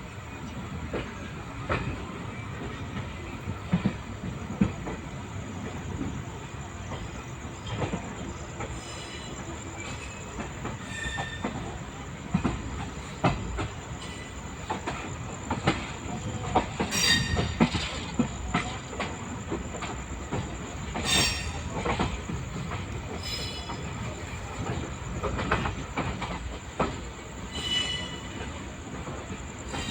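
LHB passenger coach running on rails: a continuous rumble with irregular clacks of the wheels over rail joints, and a few short high metallic squeals from the wheels.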